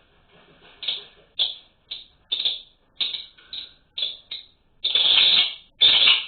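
Small birds calling in a series of short, harsh chirps, about two a second, with one longer call about five seconds in.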